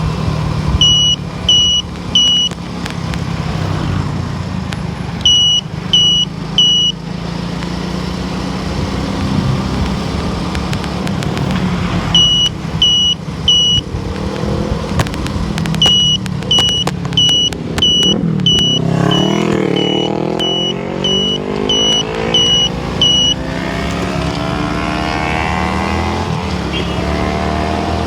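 A car running down the road, heard from inside, with a steady low hum of engine and tyre noise. Over it comes a short high electronic beep, three times in a row, in three separate groups, then a longer run of about a dozen quick beeps. About two-thirds of the way in there is a whoosh that sweeps down and back up in pitch, as of a vehicle passing.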